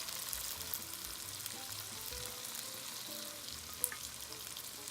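Onions, tomatoes and dry spices frying in peanut oil in a pan: a steady sizzle, with a short click about four seconds in.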